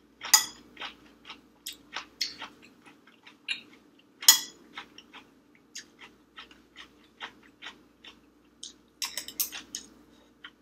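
Close-miked eating sounds: irregular wet chewing and mouth smacks as rice and food are eaten. A few sharper clicks come from a metal spoon scraping and tapping against a glass bowl, one about half a second in and one just after four seconds.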